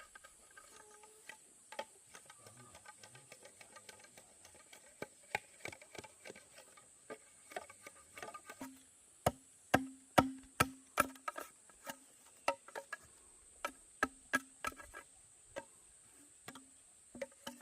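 Irregular sharp knocks of tools on bamboo, sparse at first, then coming faster and louder about halfway through, several with a short hollow ring. A faint steady high hiss runs underneath.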